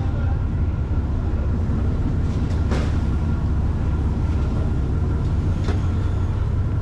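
Ferry's diesel engine running with a steady low rumble, with a few faint knocks.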